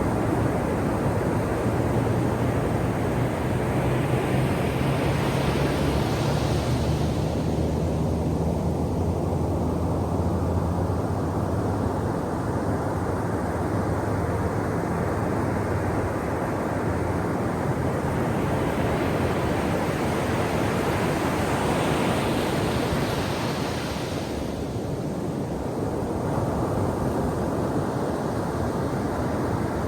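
Ocean waves breaking and washing up a shore under a steady roar of surf. Two waves swell and crash, one several seconds in and another past the middle.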